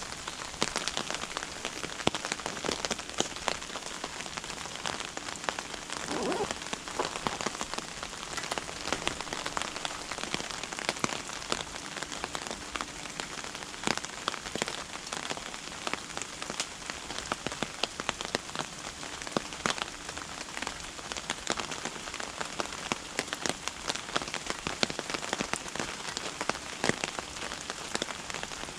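Steady rain, with many close drops hitting a surface in a dense, irregular stream of sharp ticks.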